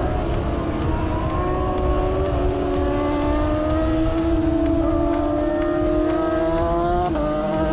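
Racing motorcycle engine at full throttle, its pitch climbing steadily for several seconds, then dropping sharply near the end at a gear change before it climbs again.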